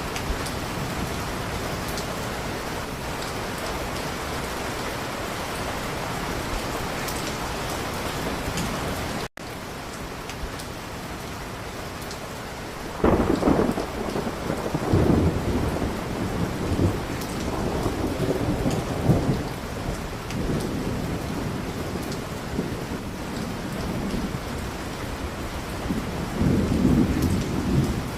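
Steady rain, broken by a sudden cut about a third of the way in, after which the rain goes on more softly. From about halfway, rolling thunder rumbles swell and fade several times, the last near the end.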